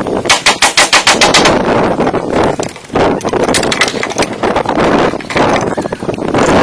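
A fast run of sharp knocks, about eight to ten a second, then a dense rattling noise with scattered knocks and a brief lull about three seconds in.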